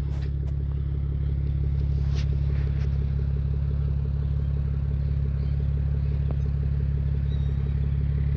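2003 Toyota Avalon's 3.0-litre V6 idling steadily through a homemade straight-pipe exhaust, an even low exhaust drone with a fine regular pulse. Very quiet for a straight pipe.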